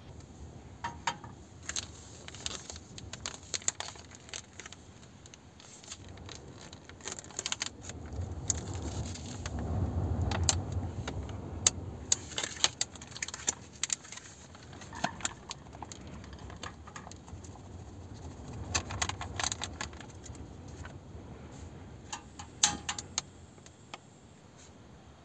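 Scattered clinks and rattles of small hard, metallic objects being handled, over a low wind rumble on the microphone that swells for a few seconds about a third of the way through.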